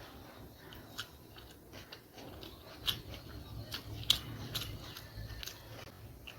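Someone eating egg chowmein noodles: chewing with irregular sharp wet mouth clicks, the loudest about four seconds in.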